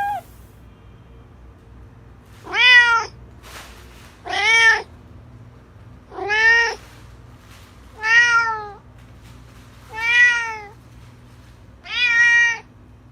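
Domestic cat meowing six times, about every two seconds, each meow rising then falling in pitch.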